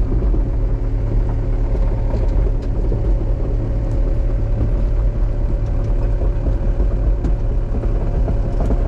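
Excavator engine running steadily as the machine works a tree out: an even, deep drone with steady humming tones.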